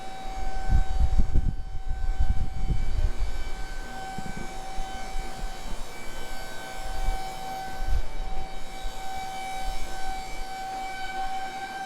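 Car lift's electric pump motor running with a steady whine as it raises the car. Low thumps and rumbles sound over it in the first few seconds.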